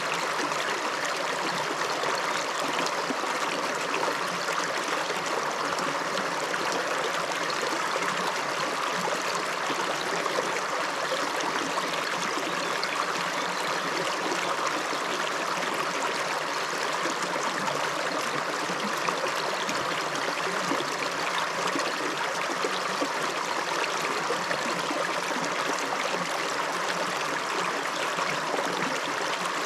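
A river flowing over rocks, its water rushing and splashing steadily.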